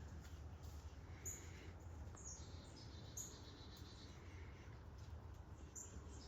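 Faint outdoor ambience: short, high bird chirps about once a second over a steady low background hum.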